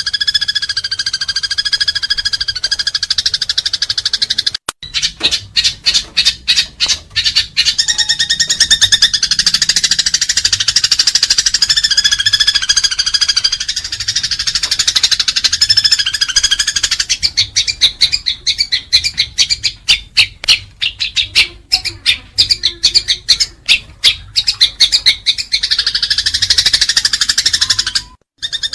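Eurasian tree sparrows chattering in a fighting bout: a dense, nonstop run of rapid, sharp chirps. There are brief breaks about five seconds in and near the end.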